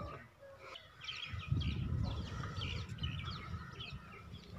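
Birds chirping with many short, quick calls, over a low rumble that starts about a second in and is the loudest part.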